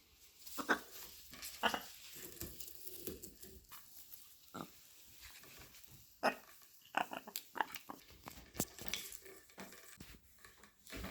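Blue-and-gold macaw climbing and playing on a play stand: an irregular series of short, sharp knocks and clicks, with some low animal sounds mixed in.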